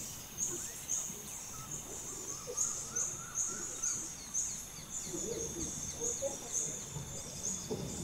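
Rainforest ambience: a bird's high, thin call repeated about twice a second, with a steady high tone joining about halfway through.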